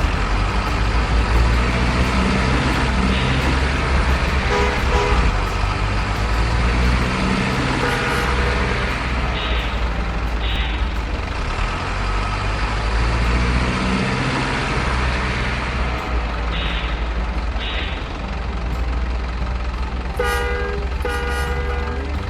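Radio-controlled model trucks with sound units playing a diesel truck engine rumble, with short air-brake-like hisses in pairs and a horn sounding twice near the end.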